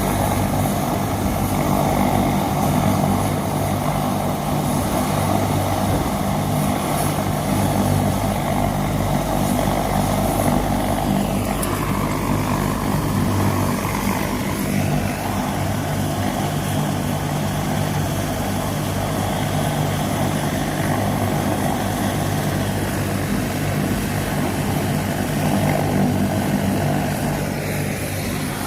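Trauma helicopter's turbine engine and rotor running steadily, a continuous drone with a steady low hum beneath it.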